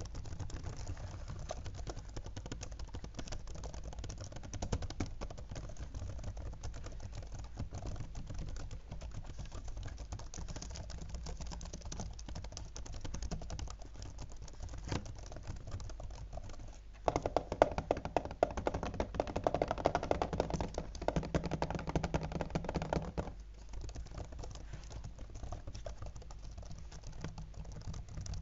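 Fingertips tapping rapidly on a laptop, a dense, continuous run of quick clicks on its keys and casing, louder for several seconds in the middle.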